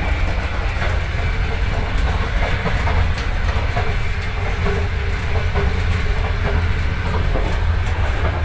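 Passenger train in motion heard from inside a carriage: a steady heavy low rumble, with occasional clacks of the wheels over the rails.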